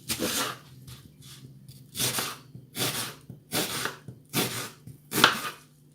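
A kitchen knife slicing through an onion onto a chopping board, six crisp cuts: one near the start, then after a pause a steady run of about one cut every 0.8 seconds.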